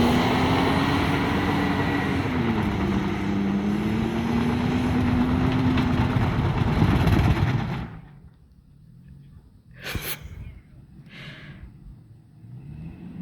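2021 Toyota Tacoma's engine working hard under load as the truck tries to climb a steep, rough hill, its pitch wavering and dipping, with noise from the tyres and body. It cuts off sharply a little before eight seconds in. After that come two brief puffs of noise about a second apart.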